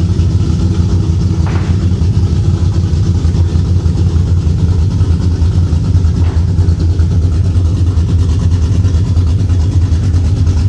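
2007 Mustang GT's 4.6-litre V8 idling steadily and loudly through a full 3-inch exhaust: Hooker long-tube headers, an X-pipe and Cherry Bomb glasspack mufflers with turndowns that dump ahead of the rear axle. The idle is a deep, even rumble.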